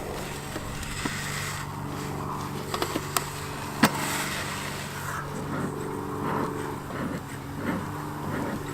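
A beekeeper's bellows smoker being puffed over a hive, giving short hissing puffs over a steady low hum, with a sharp click about four seconds in.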